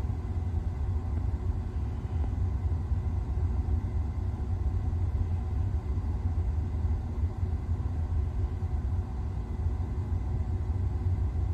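Steady low rumble of a car driving along the road, with no sudden knocks or impacts.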